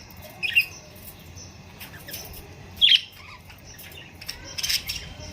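A flock of budgerigars chattering, with sharp squawks about half a second in, near three seconds and just before the end, and softer chirps between them.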